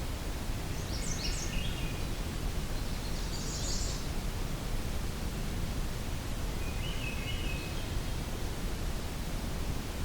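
Soft songbird phrases at the end of the day over a steady low background hiss and rustle: a short high song about a second in, a brighter, higher one around three and a half seconds, and a lower, softer phrase near seven seconds.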